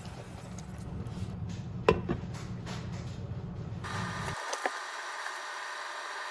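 A few sharp knocks and clicks of kitchen utensils, the loudest about two seconds in, over a steady low hum that stops about four seconds in.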